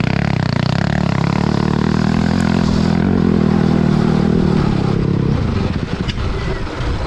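A CRF 450 single-cylinder four-stroke dirt-bike engine fitted in a Barbie Jeep, running hard under throttle at a steady pitch. At about five and a half seconds in it backs off and goes rougher and quieter.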